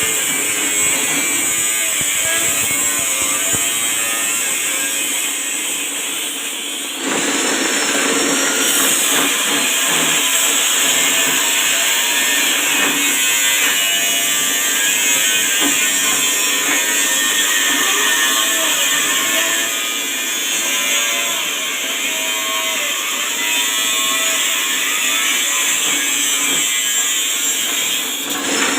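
Small forage chopping machine driven by a 1/4 hp electric motor, running steadily; the sound steps up suddenly and gets louder about seven seconds in.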